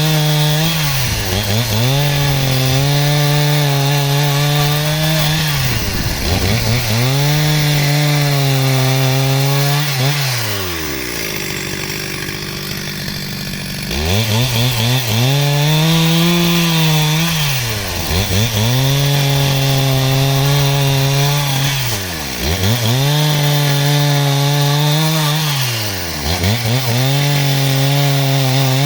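Two-stroke chainsaw held at high revs while ripping timber into rafters. Every few seconds the pitch dips sharply and climbs back, and about ten seconds in it drops to idle for roughly three seconds before revving up again.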